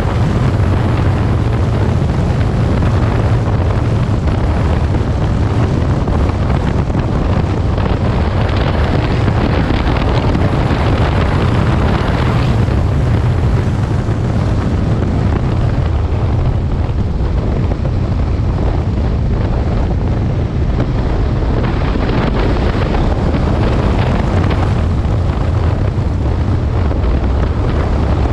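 Aprilia Tuono Mille's V-twin engine running under way, a steady low drone, with heavy wind noise on the microphone that swells now and then.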